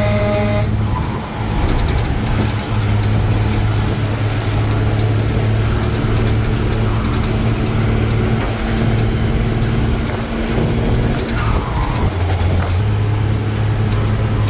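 Truck engine running steadily under way, with its drone dipping in pitch about twelve seconds in. A vehicle horn toots briefly at the very start.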